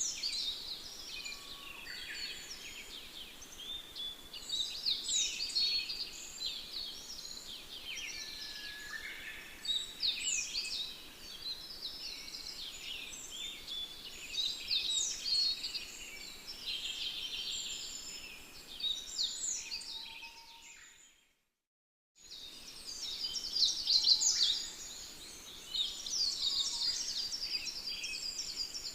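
A dense chorus of many songbirds chirping and trilling at once, high-pitched. It fades out about 20 seconds in, drops to silence for about a second, then starts again.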